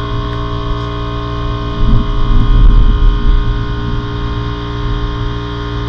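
A steady electrical hum made of several even tones, with a louder low rumble from about two to three and a half seconds in.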